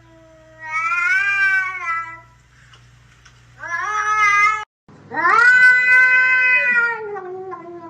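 Cat meowing: three long, drawn-out meows, the second cut off abruptly.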